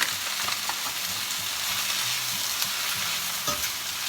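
Asparagus with onions and garlic sizzling steadily as it sautés in a pan, with a couple of light clicks, one at the very start and one about three and a half seconds in.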